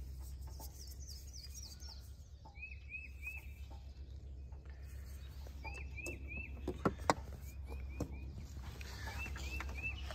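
A small bird calling in short runs of three or four quick chirps, repeated several times, over a steady low hum, with two sharp clicks about seven seconds in.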